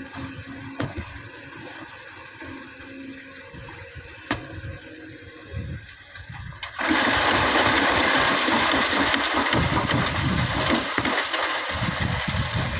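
Heavy machinery running quietly with a few knocks, then, about seven seconds in, a sudden loud rushing hiss that keeps on: a bucketload of sand being dumped from an excavator into a dump truck's bed.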